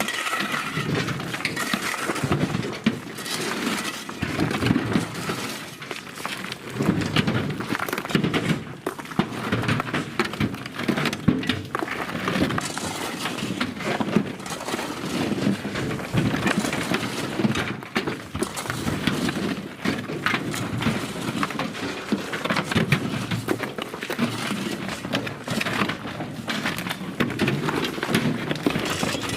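Rubble stone clattering and tumbling continuously as it is unloaded from the work train's wagons, a dense rattle of rocks knocking against each other and against metal.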